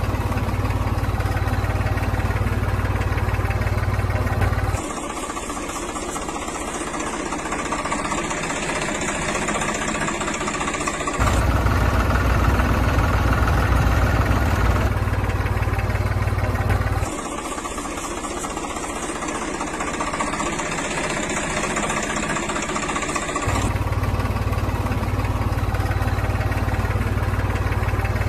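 Engine idling steadily. About every six seconds its sound changes abruptly between a deeper, heavier run and a lighter, higher-pitched one.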